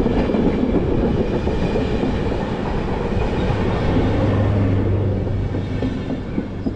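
A train passing close by, its wheels rumbling and clattering on the track, with a steady low hum joining in for a couple of seconds midway and the noise easing slightly near the end.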